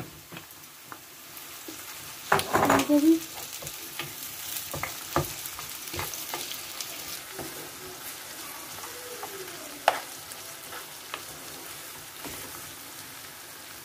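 Chopped tomatoes and onions sizzling in hot oil in a frying pan while a wooden spoon stirs them. The spoon knocks and scrapes against the pan, with a loud cluster of knocks about two and a half seconds in and a sharp tap near ten seconds.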